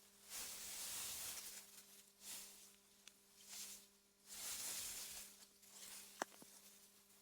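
Soft wind blowing through meadow grass: a faint hiss that swells and fades in gusts every second or two, over a faint steady hum. A single sharp click about six seconds in.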